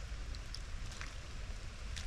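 Steady hiss of rain and running floodwater over a low, steady rumble, with a few short high chirps.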